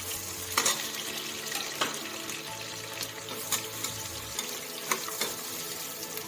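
Onions sizzling in hot sesame oil in a pressure cooker, with a spoon stirring and clicking against the pot every second or so.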